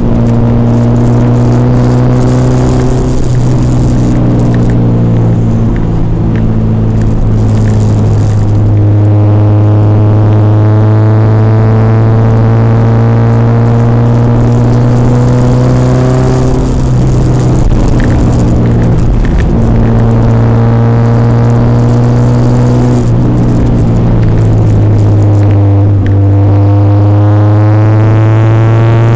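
Car engine heard from inside the cabin under hard driving, with a steady low drone. The engine pitch climbs for several seconds and then drops back, three times over.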